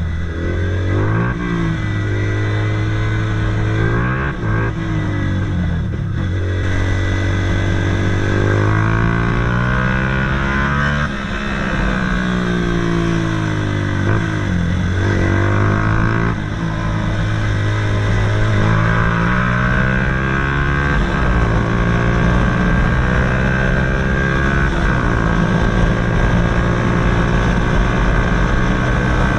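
Honda CBF 125 single-cylinder four-stroke running through a DanMoto GP aftermarket exhaust while riding. The engine pitch rises and drops back several times as it pulls through the gears, then holds a fairly steady note for the last several seconds.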